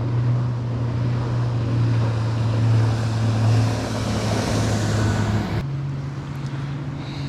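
Bass boat's outboard motor running steadily as the boat passes close, with the rush of water off its hull building up and then cutting off suddenly about three quarters of the way through.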